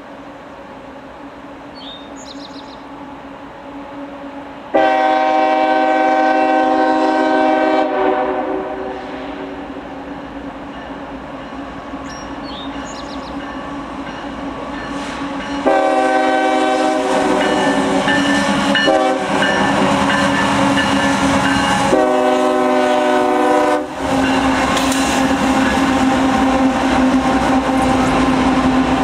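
Locomotive air horn sounding several long, steady chord blasts, then the train running past loudly with heavy rumble and rail noise.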